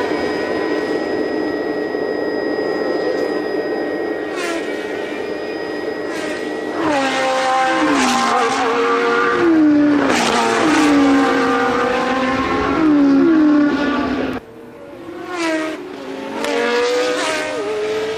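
1982 Formula One race cars at full racing speed, their engines running high. From about seven seconds in, several cars go by one after another, each engine note falling in pitch.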